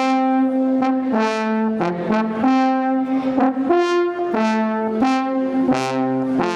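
Music: a brass instrument playing a melody, one line of held notes that step up and down in pitch.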